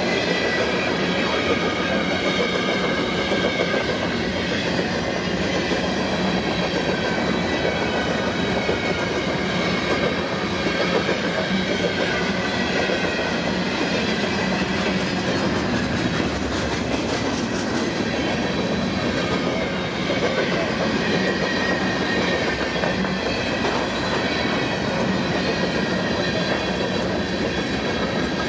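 CN freight train cars rolling steadily past, wheels clicking over the rail joints with a faint thin squeal from the wheels on the rails.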